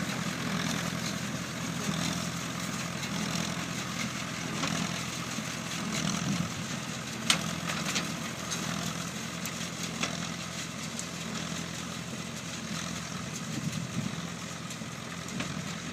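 Antique baler running: a steady engine drone with mechanical clatter and a few sharp knocks, the loudest about seven seconds in.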